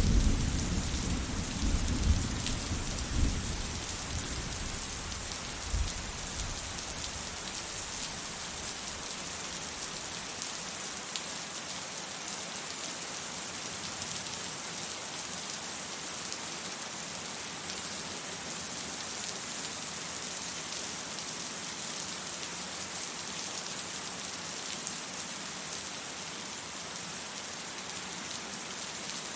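Steady heavy rain hissing, with a low rumble of thunder and a few cracks in the first few seconds that dies away about six seconds in, leaving only the even sound of the rain.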